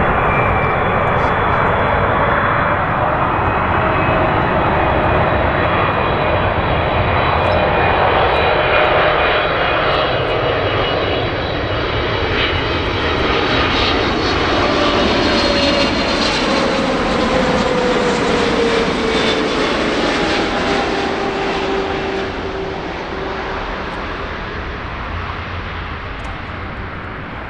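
Jet airliner's engines passing by, a steady loud roar with a whine that falls in pitch as it goes past, then fades near the end.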